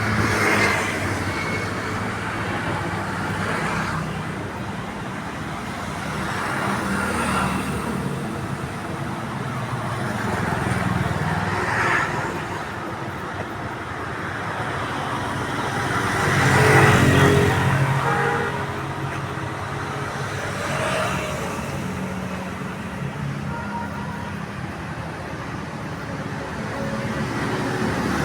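Road traffic: a steady run of vehicles passing one after another, each swelling and fading, the loudest going by about two-thirds of the way through.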